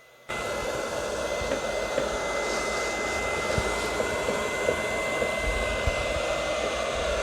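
Hot-air blower switched on about a third of a second in, then running steadily with a rush of air and a thin high whine. It is heating the phone's screen to soften the adhesive so the display can be lifted.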